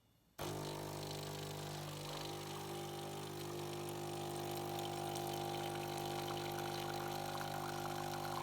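Saeco Xelsis SM7683/10 fully automatic espresso machine running its brew cycle for a first espresso: a steady mechanical hum with a clear pitch that cuts in suddenly about half a second in and grows slightly louder.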